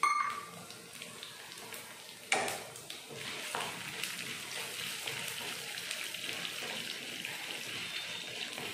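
Chana dal, urad dal, cumin and coriander seeds frying in hot oil in a nonstick pan, a steady sizzle as a wooden spatula stirs them. A short ring at the start and a sharp knock about two seconds in.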